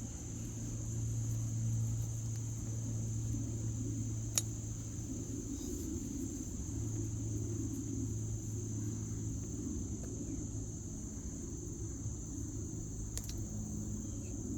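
Steady outdoor background: a low, even hum like an engine running, under a constant high-pitched insect drone, with a faint click about four seconds in and another near the end.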